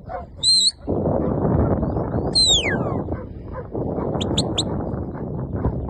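Shepherd's whistle commands to a working sheepdog: a short steady whistle, a long falling whistle, then three quick pips. Under them, from about a second in, a loud rushing noise.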